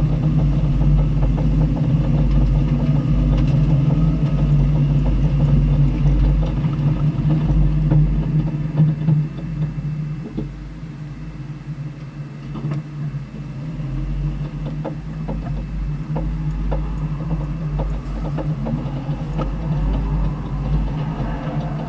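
Vehicle engine running steadily at low, fairly even revs. It drops back about ten seconds in, then picks up again.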